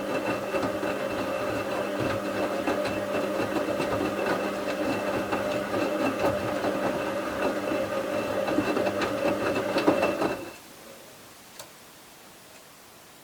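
Bauknecht WA 7778 W washing machine's motor turning the drum with a steady hum and a clattering rattle, stopping suddenly about ten seconds in. The machine's drum bearing is already failing, though not yet badly.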